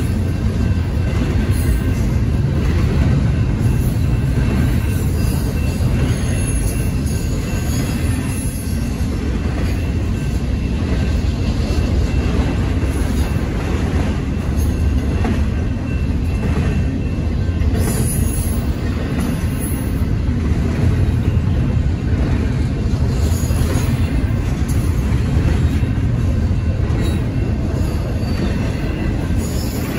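Double-stack intermodal freight cars rolling steadily past at a grade crossing: a loud, continuous low rumble and rattle of wheels on rail, with faint high steady tones above it.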